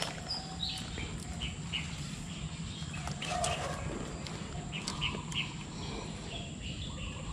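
Birds chirping on and off in short high calls, over a steady low hum.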